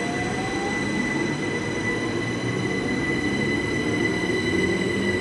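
A train moving along the station platform, its wheels giving a steady high-pitched squeal over a low rumble that grows slightly louder.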